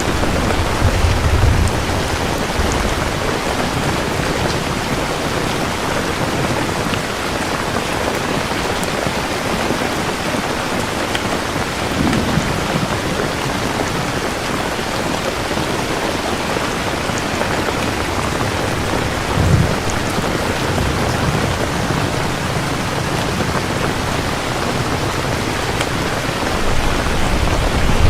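Steady heavy rain falling, a dense even hiss, with low rolls of distant thunder rumbling in about a second in, near the middle, about two-thirds through and again at the end.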